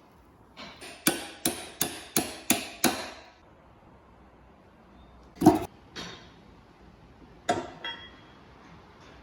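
Hammer blows: a quick run of six strikes at about three a second, then a heavier single blow about five and a half seconds in and a few lighter knocks after it.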